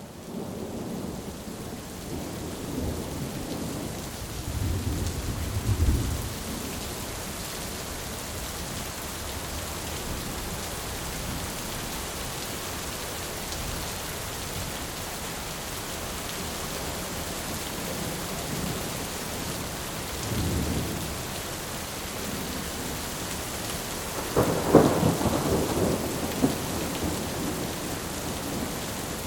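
Thunderstorm: steady rain hissing throughout, with thunder rumbling a few times, the loudest peal about three-quarters of the way through.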